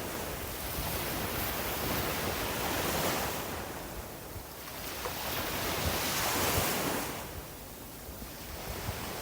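Sea waves breaking and washing up on a beach: two surges a few seconds apart, each swelling and then falling away.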